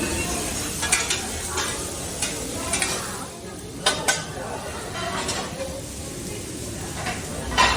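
Food sizzling as it is stir-fried, with the utensils clicking and scraping against the cooking surface; the loudest clack comes near the end.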